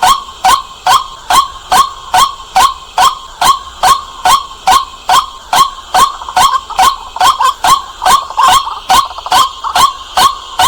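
White-breasted waterhen calling: a loud, sharp note repeated steadily a little over twice a second, the notes coming closer together for a moment about eight seconds in.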